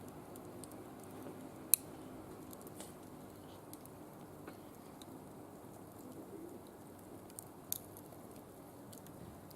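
Small wood fire burning in a barbecue grill: a low steady hiss with scattered faint crackles, and two sharp pops, one about two seconds in and another about eight seconds in.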